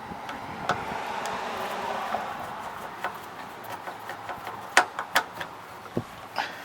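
Scattered sharp clicks and knocks of a screwdriver and small parts being handled at the lawn mower's carburetor and air filter, over rustling wind noise on the microphone; the loudest knocks come a little under five seconds in.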